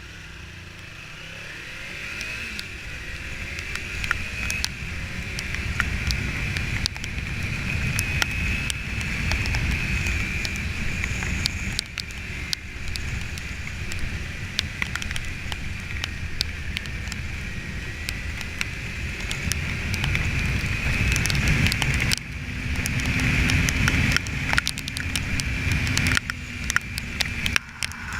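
Kawasaki Ninja 300 motorcycle on the move: its parallel-twin engine running under wind and road noise on the microphone, with scattered sharp clicks. The sound builds over the first few seconds, then stays steady and loud.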